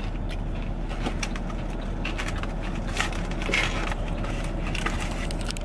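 Small crunches and clicks of crispy fried chicken being eaten and its paper box handled, over a steady hum inside the car.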